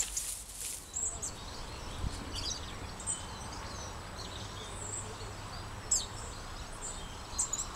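Small birds chirping now and then over steady outdoor background noise, with a short rustle of daylily foliage being handled at the very start.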